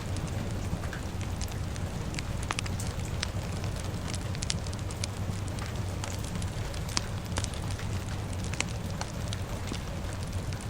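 Wood fire crackling with frequent sharp, irregular pops, over a steady hiss of rain and a low, even rumble.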